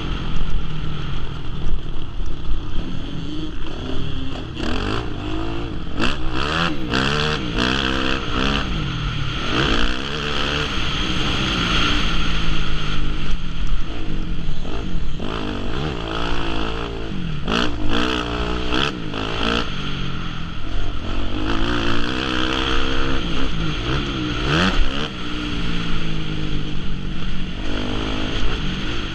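Motocross bike engines revving and shifting, the pitch climbing and dropping again and again, with a few short sharp clattering noises now and then.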